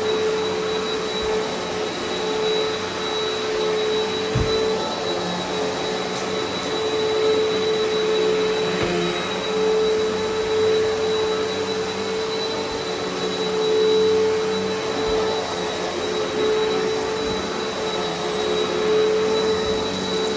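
Eureka Altima upright vacuum cleaner running steadily over long-neglected carpet: a motor hum with a steady whine over rushing air, with crunchy grit being sucked up. A brief knock about four seconds in.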